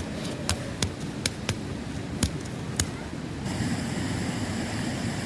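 A series of sharp, irregular taps or clicks, about eight in three seconds, over a steady rushing background; the background changes about three and a half seconds in and the taps stop.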